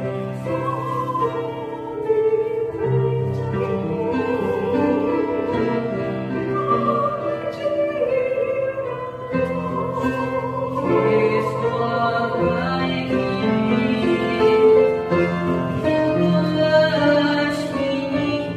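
Church praise music: a slow hymn sung in long held notes with vibrato, with instruments accompanying.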